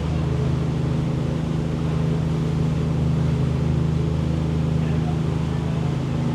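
Passenger boat's engine running at a steady cruise, a constant low drone heard from on board.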